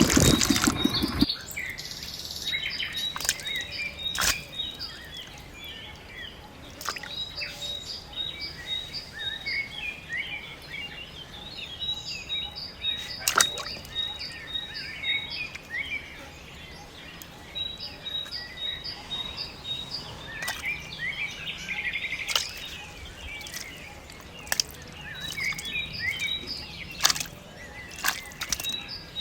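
A diesel engine stops about a second in. Small birds then chirp and call, with a quick repeated high note and a few sharp clicks scattered through.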